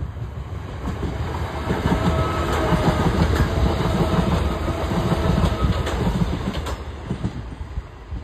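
Southern Class 377 Electrostar electric multiple unit passing close by: a rumble that builds, peaks as the carriages go past and fades as the train moves off, with the wheels clacking over rail joints.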